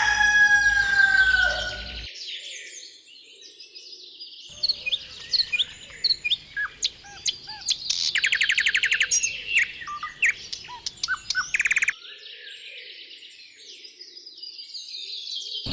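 Birds chirping and singing, with many short chirps and whistled glides and a rapid trill about eight seconds in. A loud falling call opens the sound and dies away about two seconds in.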